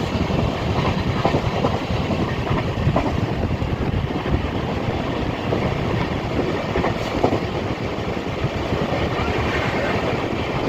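Passenger train running, heard from inside a coach: steady rumble of the wheels on the rails with irregular clicking and knocking from the bogies and rail joints.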